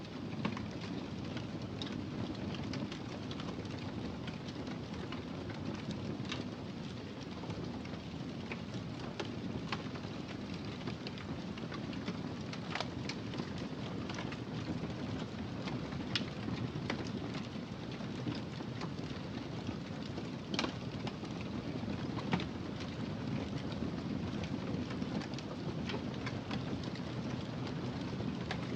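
Wood fire crackling: a steady low rushing with irregular sharp pops and snaps scattered throughout.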